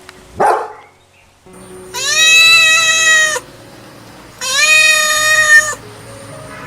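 An animal calling twice, each call long and held at one even pitch for over a second. A short noisy sound comes about half a second in.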